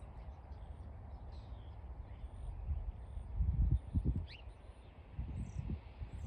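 Small birds chirping outdoors: a run of short, very high chirps and one quick sweeping note, over a low rumble with a few dull thumps a little past the middle.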